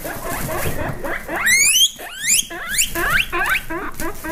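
Guinea pig wheeking: a run of quick, high, rising squeaks, several in close succession from about a second in, over a low rumble.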